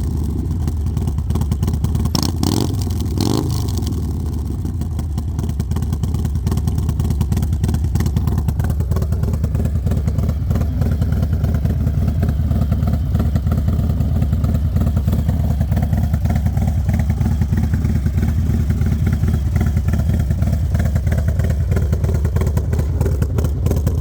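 2022 Harley-Davidson Low Rider S's Milwaukee-Eight 117 V-twin, fitted with a Star Racing 30/30 cam and Thrashin exhaust, running warmed up: two quick throttle blips a couple of seconds in, then steady idle.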